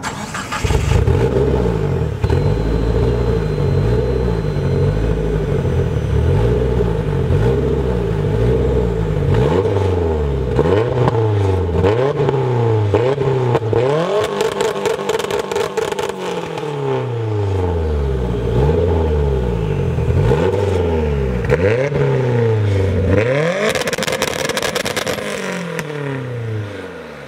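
Mitsubishi Eclipse GSX's turbocharged 4G63 four-cylinder held on a two-step launch limiter, its revs repeatedly dipping and rising every second or two. Crackling pops come from the exhaust in stretches in the middle and near the end.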